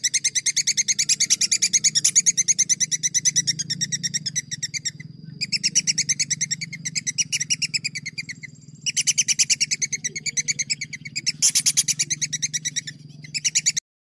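A songbird's rapid rolling trill: high notes repeated several times a second in long runs, broken by short pauses, over a low steady hum, cutting off abruptly near the end.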